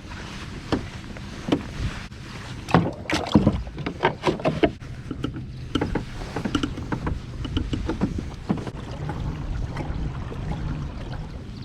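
Kayak moving on the water: irregular splashes and knocks against the hull, over a steady low hum.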